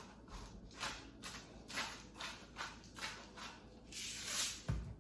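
Himalayan pink salt being added to the rice: a run of short gritty strokes, about two a second, then a longer rasp and a soft knock near the end.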